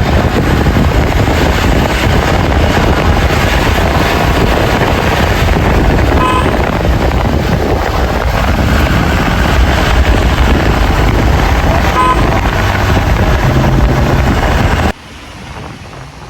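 Steady loud rumble of a vehicle on the move, engine and road noise heard from a passenger riding in the back. The noise drops suddenly near the end.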